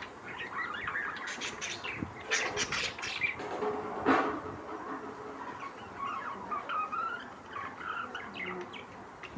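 Caged lovebirds chirping, many short quick chirps one after another, with a sharp tap about four seconds in.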